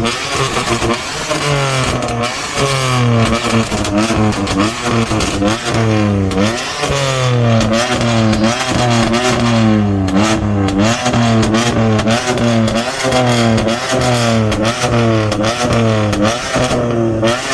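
A car engine revved over and over, its pitch rising and falling about once a second, over a steady lower engine note, with sharp crackles throughout.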